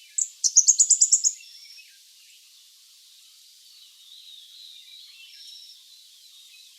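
Nilgiri flowerpecker calling: a quick burst of about nine short, high notes in the first second and a half. Fainter background birdsong follows.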